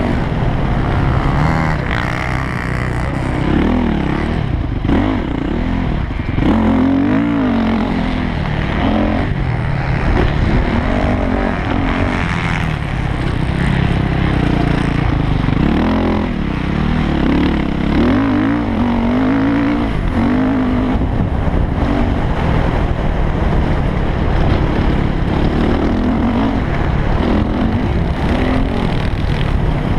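Yamaha YZ450F motocross bike's single-cylinder four-stroke engine revving up and dropping back again and again, the note rising and falling every second or two as it is ridden hard.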